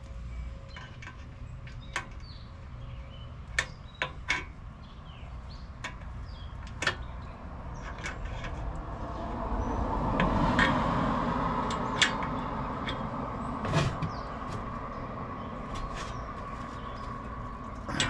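Scattered sharp clicks and knocks of metal parts and tools being handled on an air-conditioner condensing unit, over a steady low hum. Partway through, a broad rising and falling whoosh like a vehicle passing swells up and fades.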